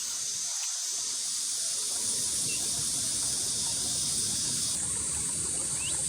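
Steady ambience beside a shallow stream: a constant high hiss over a low rush of flowing water.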